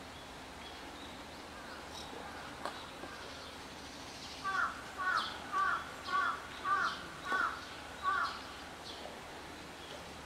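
A bird calling seven times in a row, about half a second apart, starting about four and a half seconds in.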